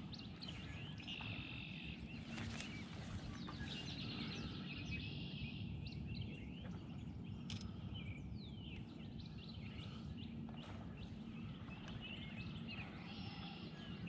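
Songbirds singing, one of them repeating a short trilled phrase a few times, over steady low background noise.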